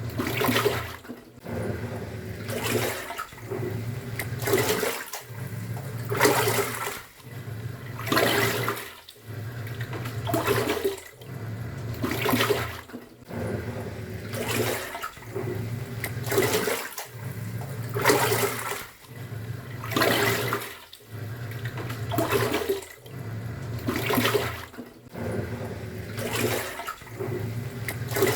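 Top-loading pulsator washing machine agitating a load: motor hum and churning, sloshing water that surge and briefly stop about every two seconds as the pulsator switches direction.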